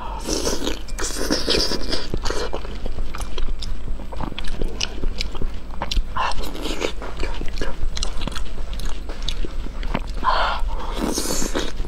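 Close-miked mouth sounds of a person biting and chewing sauced sliced meat: wet smacking and many quick irregular clicks. A few longer, louder wet spells come about a second in, around six seconds in, and near the end.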